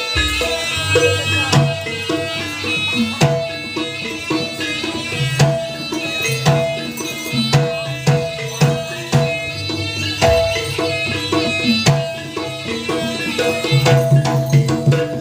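Javanese jaranan (kuda kepang) accompaniment music: hand drums beating a brisk, regular rhythm over sustained pitched instrument tones.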